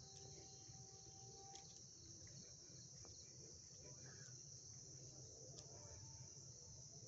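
Crickets chirring faintly and continuously in a steady high-pitched drone, over a low background rumble.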